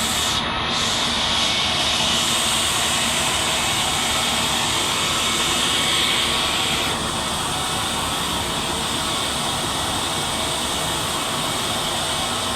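Steady aircraft noise inside an Airbus A320 cabin on the ground: an even rushing hum with a high whine on top that drops away about seven seconds in.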